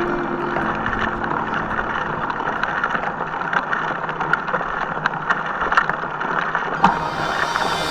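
Hardtail mountain bike riding a trail: a steady rushing noise of the tyres rolling, with scattered clicks and rattles from the bike over bumps.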